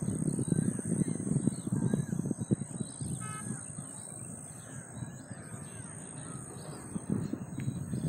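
Birds calling now and then, short curving calls with one brief stacked call about three seconds in, over a low, uneven rumble.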